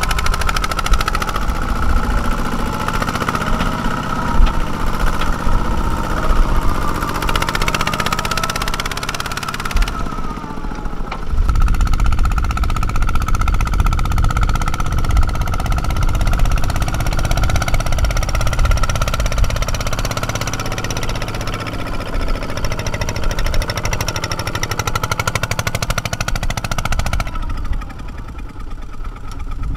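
Small farm-machine diesel engine running hard with a rapid, even knocking beat and a steady whine above it. The sound drops away briefly about ten seconds in and again near the end.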